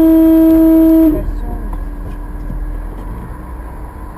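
A car horn in one long, steady blast that cuts off about a second in, followed by the steady running noise of the vehicle.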